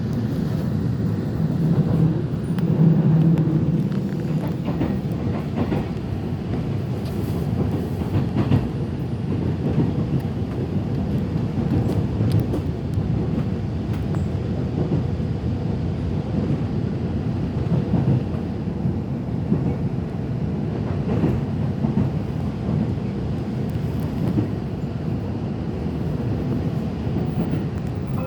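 Passenger train running along the track, heard from inside the carriage: a steady low rumble with occasional sharp clicks from the rails.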